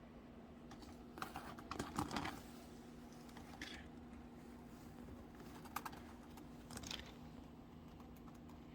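A few light clicks and rustles, a cluster about two seconds in and a few more later, over a faint steady hum.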